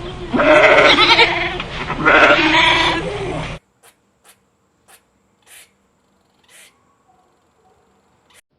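An animal calling twice, each call loud and drawn out for about a second, with a bleating, pitched sound. Midway through, the sound cuts off abruptly to near quiet, leaving only a few faint short ticks.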